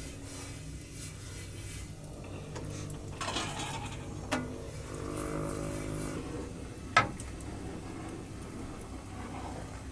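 Cooking pots and utensils knocking: two sharp clinks, about four seconds in and a louder one about seven seconds in, over a steady low background.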